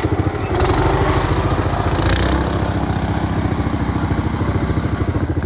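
Small gasoline engine running steadily with rapid, even firing pulses, picking up briefly about two seconds in.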